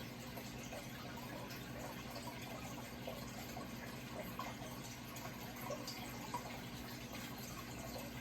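Running water trickling and splashing steadily, with small irregular splashes and a steady low hum underneath.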